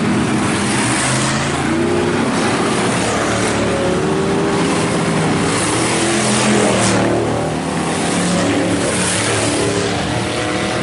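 IMCA Hobby Stock race cars running in a pack around a dirt oval, several engines at once, their notes rising and falling as they go through the turns and down the straights.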